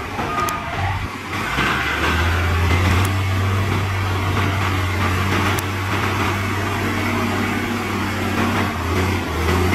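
Heavy diesel engine running steadily with a low drone. It dips briefly at the start and comes back strongly about a second and a half in.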